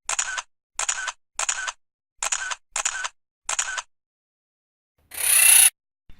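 Intro sound effects: one identical short burst repeated seven times at an even pace, about one every 0.7 s, then a single loud whoosh about five seconds in.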